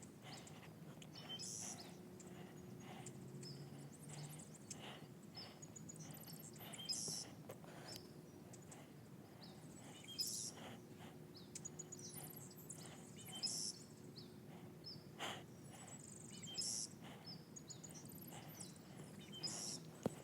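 Small birds chirping, short high-pitched calls about every three seconds, over quiet outdoor background noise with faint soft clicks.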